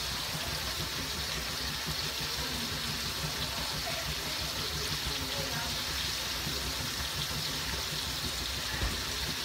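Beef frying in hot oil in a wok, a steady sizzle, over a low steady hum.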